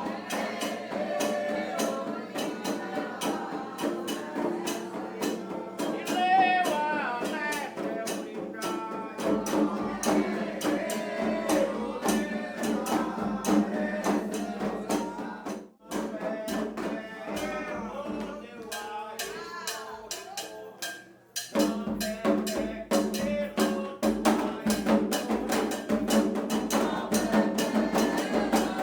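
Candomblé ritual music: a fast, steady beat of hand drums with percussion, and voices singing over it. The sound drops out briefly twice, once about halfway through and again about three quarters in.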